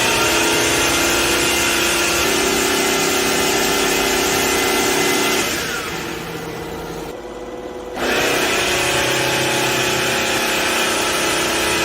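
Cordless wet-dry vacuum mop running its self-cleaning cycle on its tray: a steady motor and suction noise with a hum in it. It drops quieter for about two seconds a little after midway, then comes back up.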